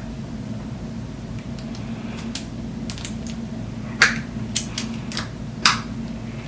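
Scattered light clicks and taps of a roller-skate bearing tool and skate parts being handled, the sharpest about four and five and a half seconds in, over a steady low hum.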